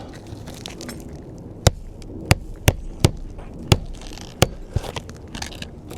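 Hammer striking roofing nails into asphalt shingles: about seven sharp, irregularly spaced blows over roughly three seconds, starting a little under two seconds in.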